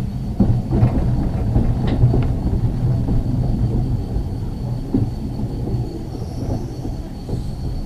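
Ex-Liverpool Corporation tram 869 running along the track: a steady low rumble with a few short knocks, and a thin steady high tone above it.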